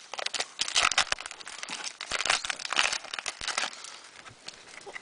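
Foil wrapper of a Pokémon trading card booster pack crinkling and tearing as it is handled and opened, in a run of quick crackly rustles.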